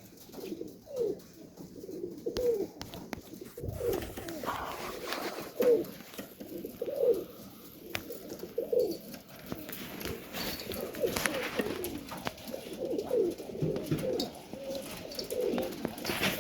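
Domestic pigeons cooing, several birds calling over one another in short repeated coos, with a few sharp clicks among them.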